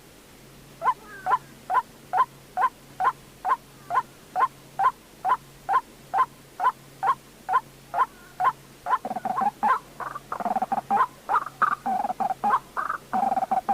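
White-breasted waterhen calling: a long run of short, evenly spaced notes at a little over two a second, which turns into a faster, lower, jumbled run of croaking notes about two thirds of the way in.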